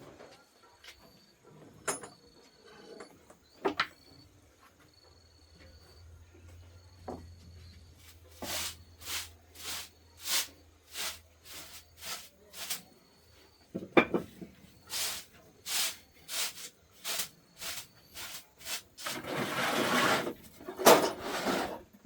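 Hand-tool work on a rice separating machine: a few scattered knocks, then a run of short, regular scraping strokes about two a second, ending in a longer rasping scrape.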